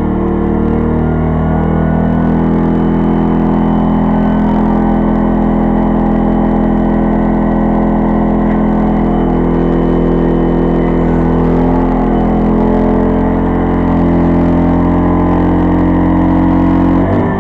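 Pulsar 2300-watt inverter generator's engine running loud and steady under the load of microwaves in eco mode, a load that overloads it. Its pitch shifts up in the first second and drops again about a second before the end.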